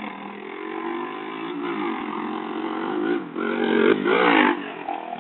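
Motorcycle engine revving, its pitch rising and falling, getting loudest about three and a half to four and a half seconds in before easing off.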